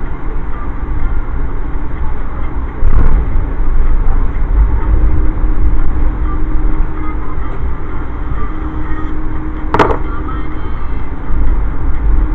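Steady low rumble of a moving Amtrak passenger train heard from inside the car, with a knock about three seconds in and a sharp click near ten seconds.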